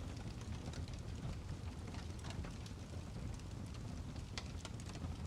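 Fireplace fire crackling, with scattered sharp pops over a low steady rumble.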